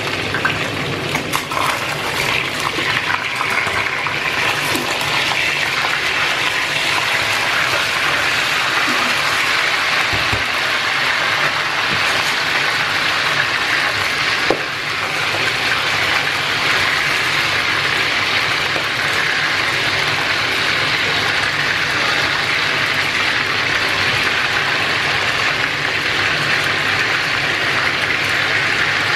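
Chicken pieces sizzling steadily in hot sunflower oil in a stainless steel pot while being browned, with a few short knocks of tongs and a spatula against the pot as the pieces are turned.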